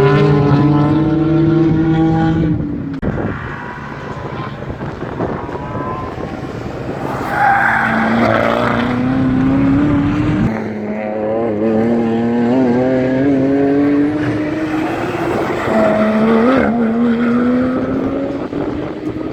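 Race car engines running on the track, the engine note climbing steadily in pitch as the cars accelerate. The note breaks off about ten seconds in and then climbs again.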